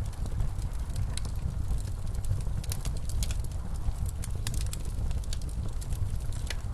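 Wood fire crackling in a fireplace, with frequent irregular sharp pops and snaps, over a steady low rumble of blizzard wind.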